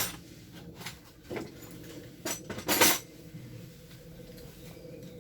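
Steel sockets clinking and rattling as star sockets are picked out of a socket set: a few separate clinks, then a louder cluster about three seconds in.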